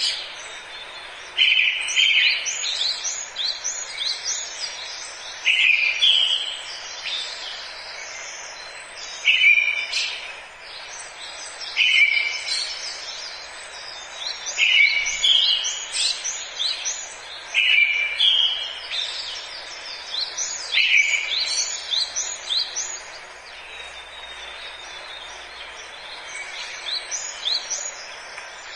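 Forest birds singing: one bird repeats a short phrase every three to four seconds while others chirp higher over a steady background hiss.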